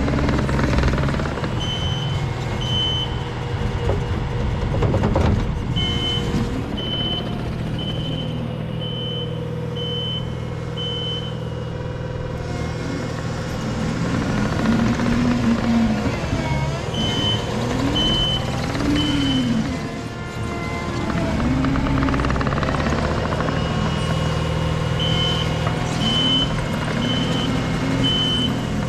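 Diesel engine of compact earthmoving equipment running under load, its note rising and falling, with a backup alarm beeping in spells, about three beeps every two seconds.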